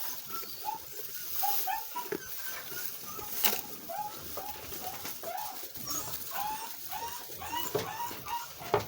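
Many short animal calls, several a second, overlapping one another, with a sharp knock about three and a half seconds in and another near the end.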